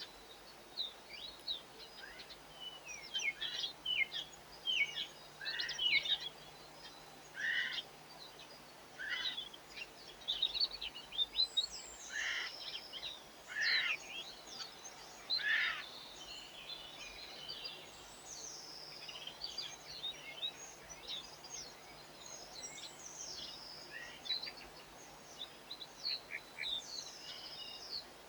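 Small garden songbirds chirping and twittering in quick, irregular runs of short high notes, some sweeping down in pitch, over a faint steady hum.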